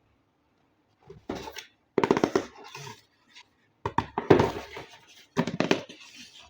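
Toy RC vehicle and its packaging handled during an unboxing: a few separate bursts of handling noise with quick clicks, about a second or two apart.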